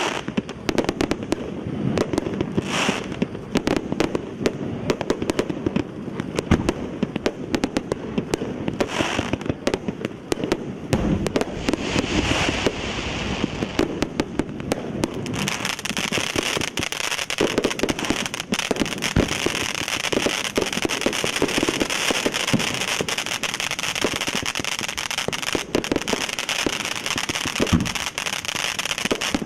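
Ground pyrotechnic fountain (A4120 'Hedgehog in the Fog') burning, with dense crackling all through. About halfway in, a steady loud hiss of spraying sparks joins the crackle.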